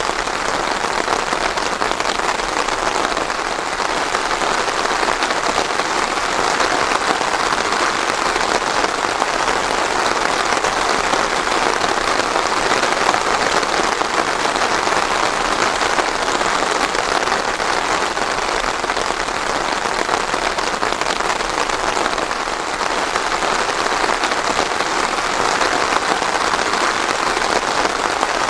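Steady rain falling on a surface, a dense, even patter with no thunder.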